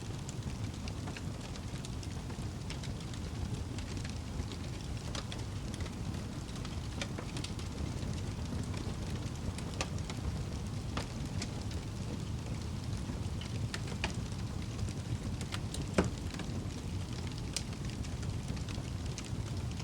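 Fire burning in a fireplace: a steady low rumble with scattered crackles and snaps, and one louder pop about sixteen seconds in.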